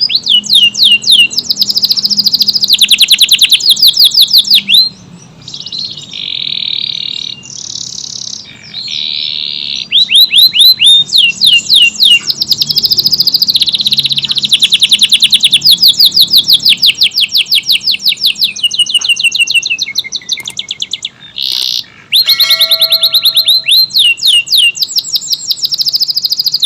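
Domestic canary singing in long, fast trills of rapidly repeated high notes. The trills are broken by a few softer buzzy phrases about five to ten seconds in and by a short pause just after twenty seconds.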